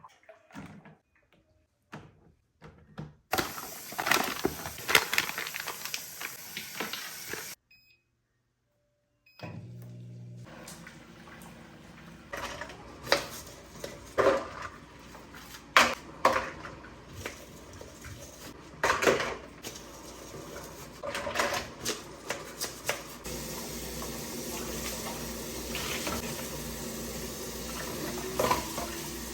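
Household handling noise in short cut-together clips: scattered clicks, knocks and light clinks over a steady hiss, with a brief gap of silence about eight seconds in.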